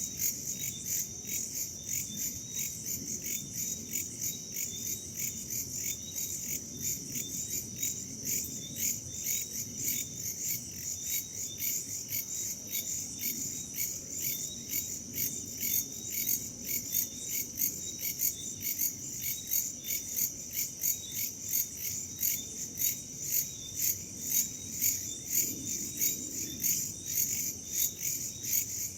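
Chorus of crickets and other insects chirring steadily in even pulses, about three a second, over a soft low rush of wind.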